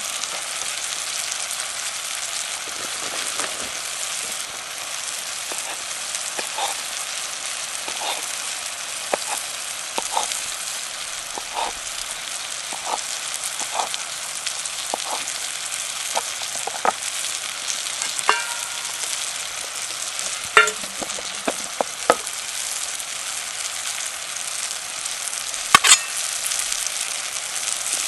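Food sizzling steadily in a pan over a campfire, with scattered sharp taps and clicks as it is stirred.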